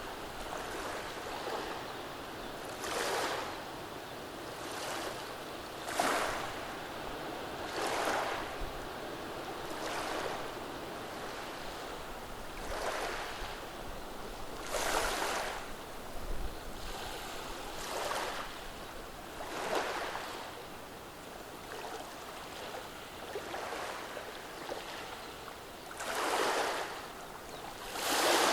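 Gentle sea waves washing over a beach of rounded stones, each small wave a brief swell of surf noise every two to three seconds at an uneven rhythm, over a constant wash.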